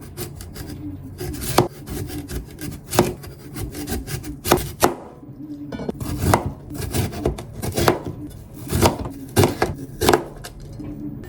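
Knife chopping on a wooden cutting board: a series of sharp, irregularly spaced knocks.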